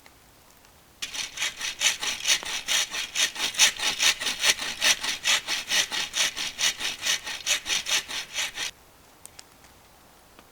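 Hand saw cutting through wood with quick, even back-and-forth strokes, about five a second. It starts about a second in and stops abruptly near the end.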